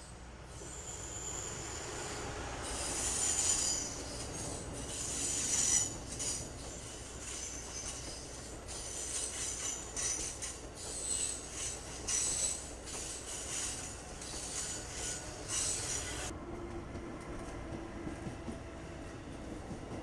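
Amtrak Acela Express high-speed trainset rolling past on a curve, its wheels squealing again and again in high, shrill bursts over the rumble of the cars. About 16 seconds in the squealing stops abruptly, and the steadier rumble and low hum of another train's passenger coaches rolling by take over.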